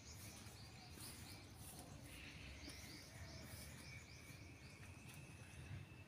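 Faint outdoor background: a small bird chirping in a quick run of short, falling high notes, about three a second, over a thin steady high tone and a low rumble.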